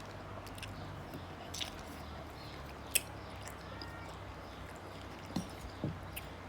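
Quiet chewing and eating sounds: a few scattered short clicks over a low steady hum.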